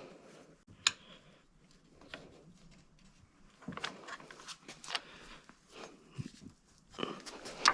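A few sharp clicks and light knocks with faint scuffing between them: metal handling noise as a motorcycle engine is shifted and worked into its frame.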